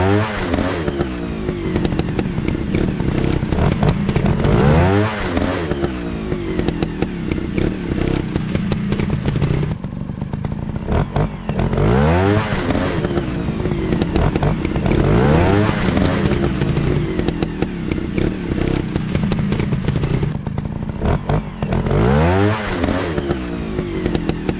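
Motocross bike engines running hard, revving up again and again with the pitch climbing through the gears every few seconds over a steady drone of engines.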